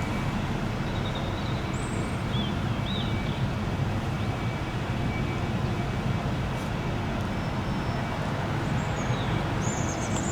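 Steady low background rumble, with small birds chirping a few times about two seconds in and again near the end.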